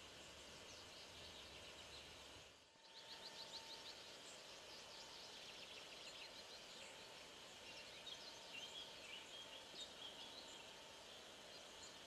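Faint birdsong over a quiet background hiss: scattered short chirps and quick trills from several birds.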